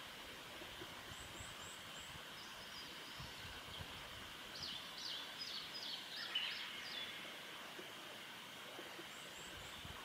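Outdoor ambience with wild birds calling: a steady high hiss, faint high chirps near the start and near the end, and a run of about seven quick notes in the middle.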